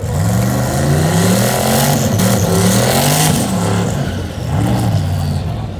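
Performance car engine under hard acceleration, its pitch climbing and then dropping several times as it shifts up through the gears.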